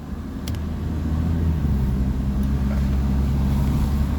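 Vehicle engine and road noise heard from inside the cab: a steady low hum that grows slightly louder over the first couple of seconds as the vehicle gets under way. A light click comes about half a second in.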